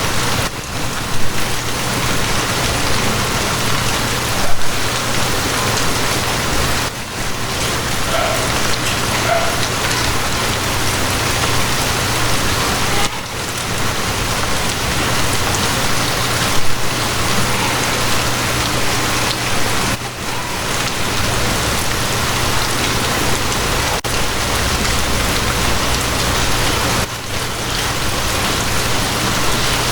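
Steady, heavy rain falling and spattering on surfaces, with a steady low hum underneath and a few louder spatters.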